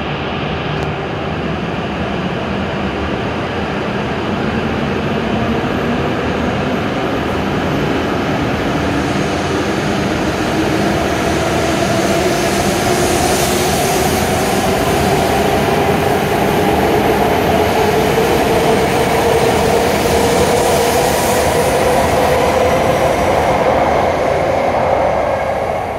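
E7 series Shinkansen pulling out and accelerating past the platform. Its motor whine rises steadily in pitch over a haze of wheel and rail noise, and the sound grows louder throughout.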